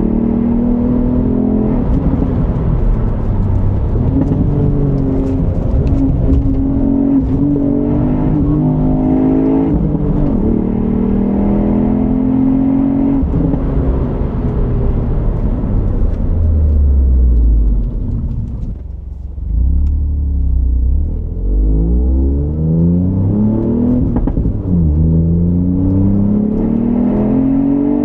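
Ford Fiesta ST's turbocharged 1.5-litre EcoBoost three-cylinder engine, stock exhaust, driven hard. The revs climb and drop back again and again, ease off briefly about two-thirds of the way through, then pull up again.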